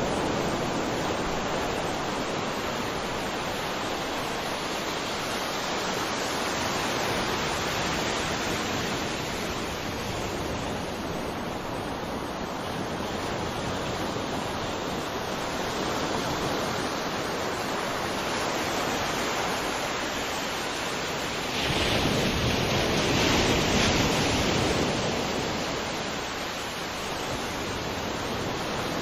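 Sea waves breaking and washing ashore, a continuous surf with slow swells; the biggest wave surges in about three-quarters of the way through and then falls back.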